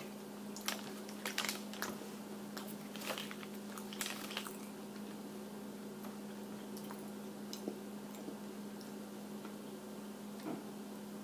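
A person chewing and biting a piece of breaded chicken with sauce and cheese close to the microphone: faint, wet mouth clicks scattered through, most of them in the first half. A steady low hum runs underneath.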